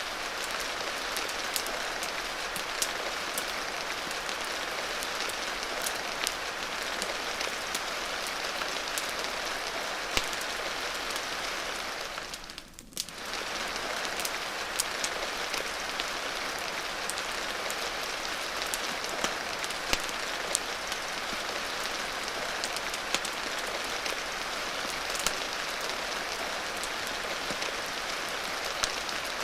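Steady rain hiss mixed with a crackling wood fire: scattered sharp crackles over an even wash of rain. The whole sound briefly dips for about a second halfway through.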